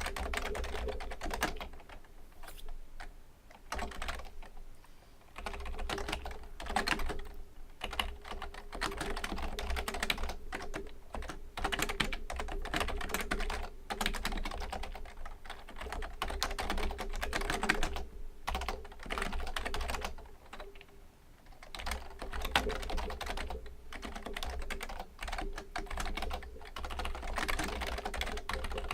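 Steady typing on a Fujitsu Libertouch membrane keyboard: a dense stream of key clicks, with brief lulls about three seconds in and again about twenty seconds in.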